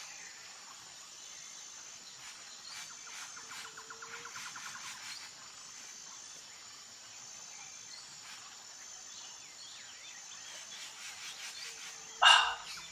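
Jungle insects calling: a high steady buzz that switches on and off, and a fast pulsing trill that swells and fades. Near the end, one short, loud sound stands out above them.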